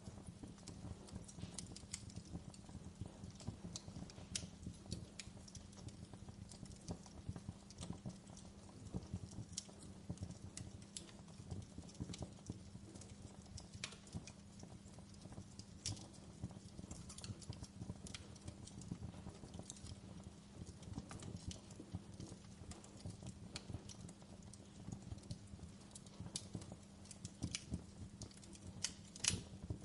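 Campfire burning wood and crackling: irregular sharp pops and snaps over a low, steady rumble.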